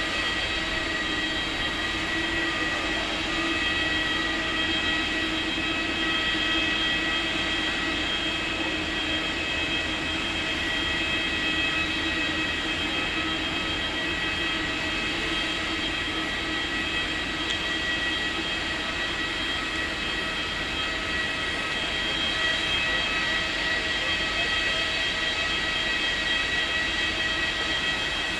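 Steady whine of idling aircraft turbines: several constant high tones held over a low rumble, with no change in pitch.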